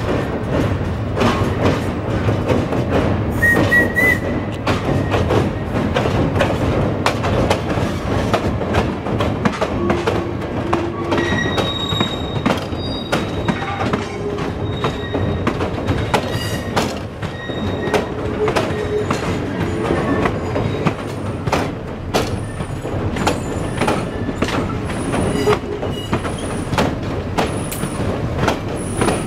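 Railroad cars rolling on the track, wheels clattering with many sharp knocks over the rails. Thin, high wheel squeals come in from about a third of the way through and recur.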